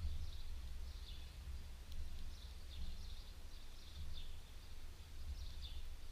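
Small birds chirping repeatedly in short, high calls, over a steady low rumble.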